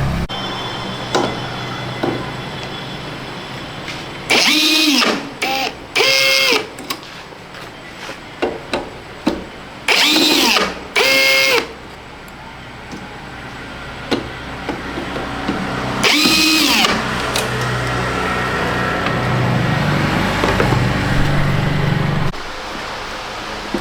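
Cordless drill or electric screwdriver run in five short bursts, each about a second long, its motor whine rising as it spins up and falling as it stops, as screws are driven out of a washing machine casing. A steady low hum runs underneath.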